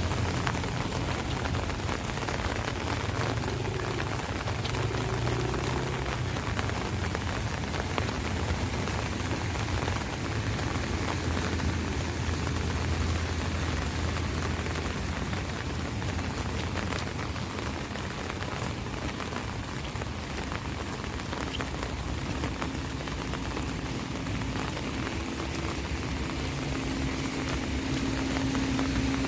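Rain falling on an umbrella, a steady dense patter of drops. A low hum creeps in and grows louder near the end.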